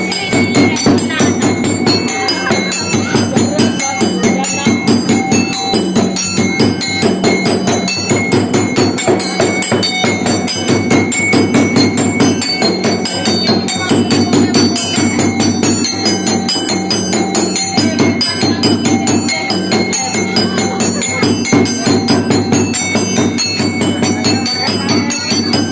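Fast, steady rhythmic music of struck, bell-like tuned metal percussion, with densely repeated strokes throughout.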